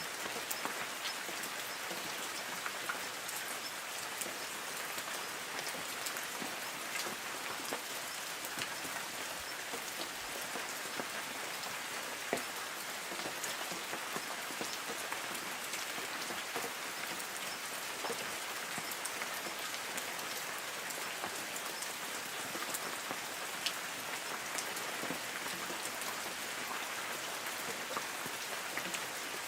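Light rain falling on forest trees: a steady patter with many individual drops ticking on leaves.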